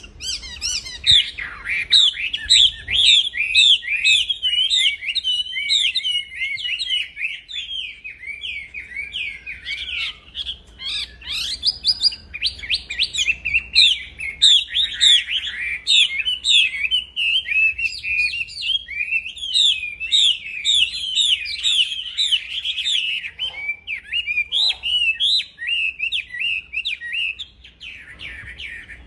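Wambi songbird singing non-stop: a fast, unbroken stream of high chirps and trills, easing briefly near the end.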